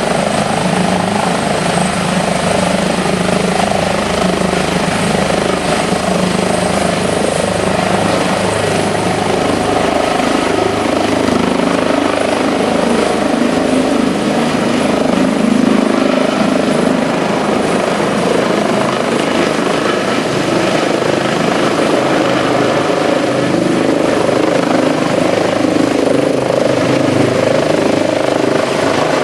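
Airbus H145 twin-turbine helicopter running, with a steady loud rotor and engine noise and a thin high turbine whine that fades about a third of the way through.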